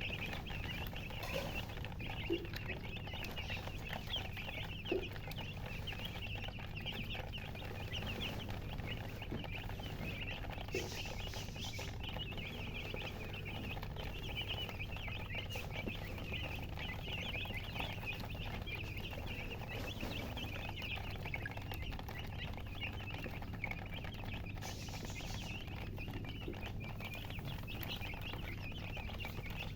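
A brood of newly hatched chicks peeping without pause, a dense chorus of short high cheeps. A low steady hum runs underneath.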